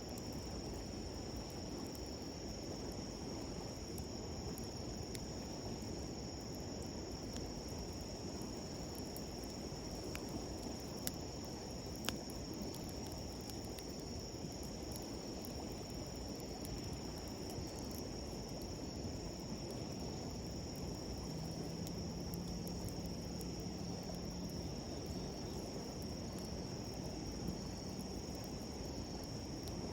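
Crickets and other insects trilling steadily at a high pitch over the even rush of a shallow river. A few sharp crackles from the campfire stand out a little before the middle.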